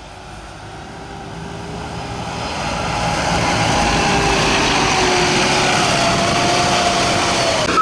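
Tucker Sno-Cat's engine and tracks running at speed, the noise growing steadily louder over the first few seconds and then holding, with a faint whine that drifts a little in pitch.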